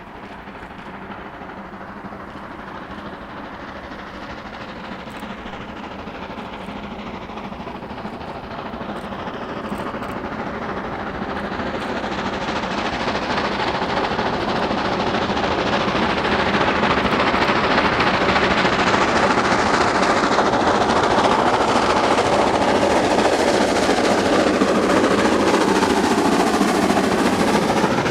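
A train running on the tracks draws closer. Its noise grows steadily louder for about the first seventeen seconds, then stays loud as it passes, with a tone falling in pitch near the end.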